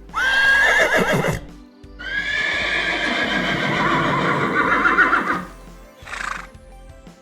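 An animal calling loudly three times: a short call with a wavering pitch, then a long call that wavers more and more towards its end, then a short breathy burst.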